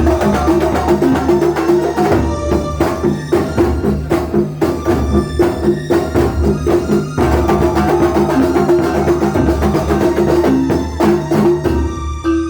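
Live Banyuwangi kuntulan ensemble playing: dense, rapid drumming with pitched melodic tones held over it.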